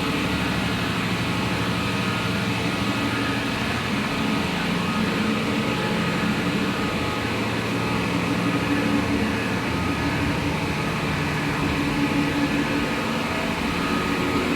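Steady drone of running machinery in a tugboat engine room, with several steady hums layered over it and no change in level.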